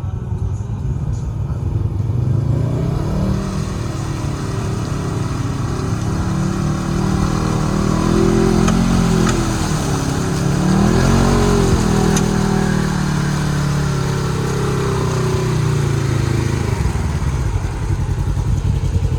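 Side-by-side UTV engine revving hard under load through a mud hole. Its pitch climbs, dips briefly about halfway, climbs again, then falls away near the end.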